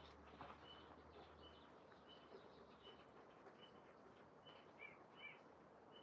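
Faint bird calls: a short high note repeated about every two-thirds of a second, joined by a couple of lower, down-slurred notes about five seconds in.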